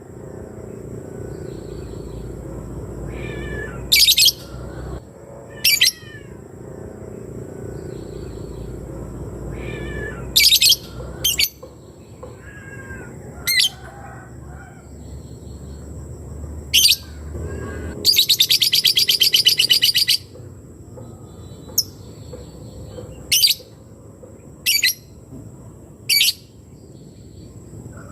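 Lebet bird calling: short sharp chirps every couple of seconds and one rapid ticking trill about two seconds long. This is the bird's typing-like "ngetik" call, used as a lure to make rival birds answer.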